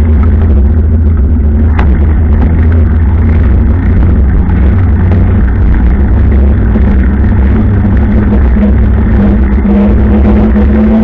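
Motorcycle engine running steadily at cruising speed while riding, under a heavy low wind rumble on the microphone.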